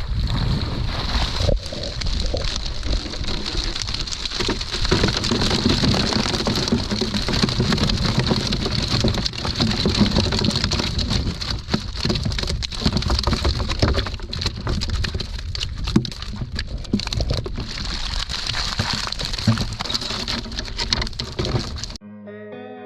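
Dense pattering and splashing of water with many small knocks, as a fish trap cage is handled at the water. It cuts off suddenly near the end, giving way to guitar music.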